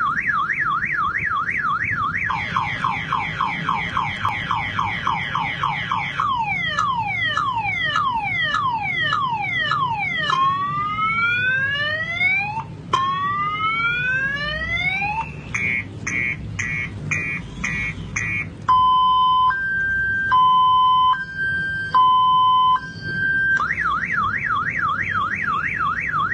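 Car alarm siren cycling through its tones: a fast up-and-down warble, then repeated falling sweeps, rising whoops, rapid pulsed beeps and a slow alternating two-tone, before the fast warble returns near the end.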